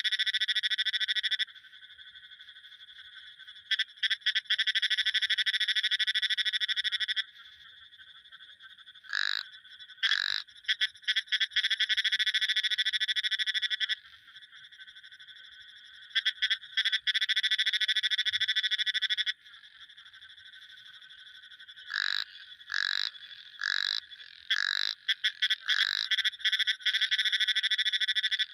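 Frogs calling: long, rapid trills of a few seconds each, broken by short pauses, then a run of short single croaks at about one a second near the end.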